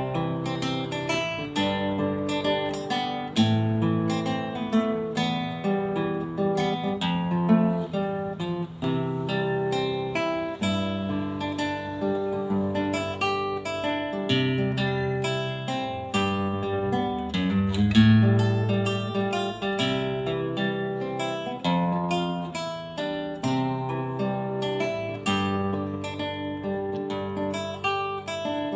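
Acoustic guitar intro: picked and strummed chords played steadily, ahead of the vocal.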